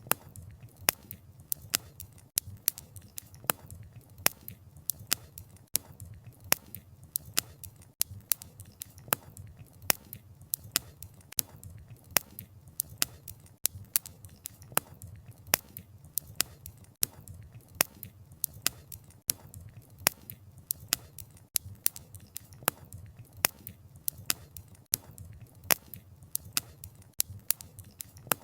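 Campfire crackling: sharp pops and snaps of burning firewood, several a second at irregular intervals, over a low steady rumble of the flames.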